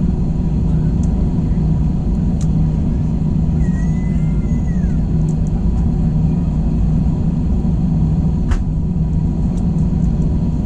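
Airbus A321 engines heard from inside the passenger cabin: a steady, unbroken low rumble with a deep hum.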